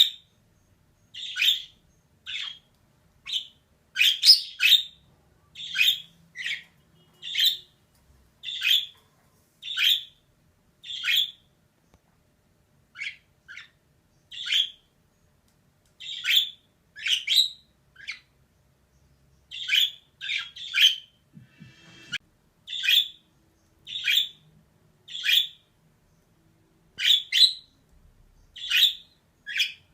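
Female budgerigar calling: short, sharp chirps repeated about once a second, now and then two in quick succession.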